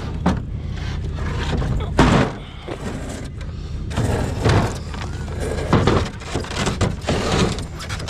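A motor running steadily at idle under a series of knocks and thuds, the loudest about two seconds in.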